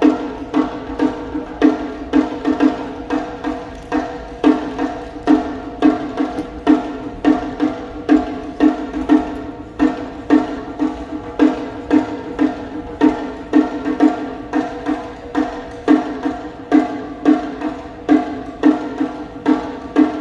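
Sumo taiko drum played with sticks in a steady, driving rhythm. Strong ringing strikes come roughly twice a second, with lighter taps between them.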